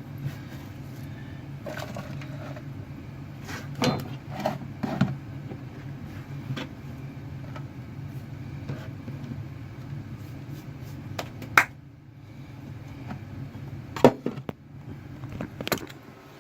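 Irregular knocks and taps of kitchen prep work on a wooden cutting board, with a few sharp louder taps, over a steady low hum.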